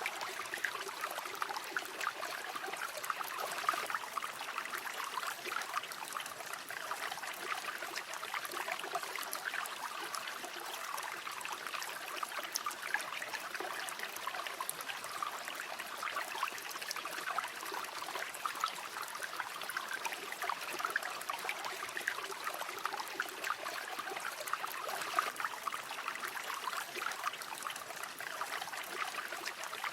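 River water flowing steadily over stones, a continuous babbling rush with small trickles and splashes flickering through it.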